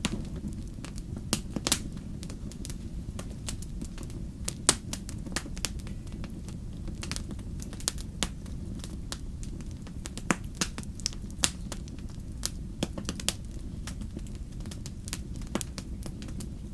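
Wood fire in a fireplace crackling: irregular sharp pops and snaps of varying strength over a steady low rumble of the flames, with a few louder pops about a second and a half and four and a half seconds in.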